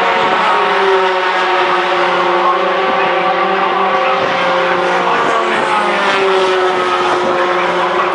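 Racing pickup trucks' engines running hard on the circuit. The engine note falls in pitch twice, about half a second in and again around five to seven seconds in.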